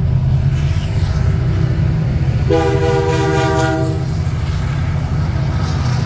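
A train passing close by with a loud, steady rumble. About two and a half seconds in, its horn sounds a chord for about a second and a half.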